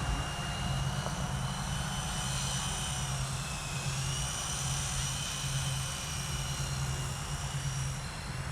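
Blade 120 S2 micro RC helicopter hovering: a steady high whine from its electric motor and rotor, the pitch wavering slightly and dipping briefly about four seconds in as it holds its position.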